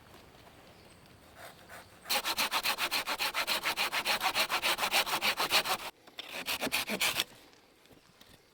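Hand saw cutting through wood in quick rapid strokes: one run of about four seconds, a brief pause, then a shorter run.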